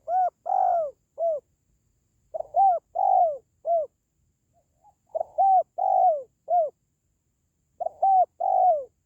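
Spotted dove calling: phrases of three or four arched coos, repeated every two to three seconds.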